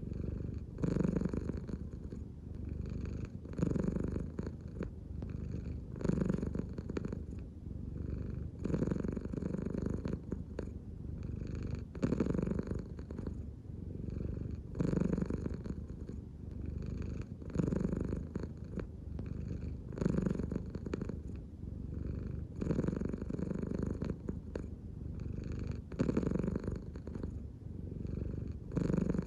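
American Shorthair cat purring steadily at close range, the low rumble swelling and easing about every two and a half to three seconds with each breath in and out.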